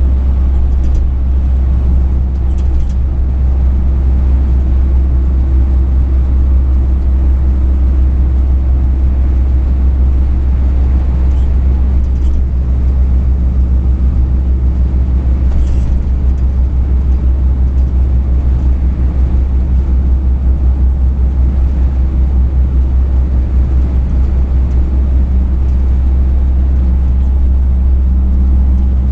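Truck engine running and road rumble heard inside the cab while driving: a steady, heavy low drone with an even engine hum.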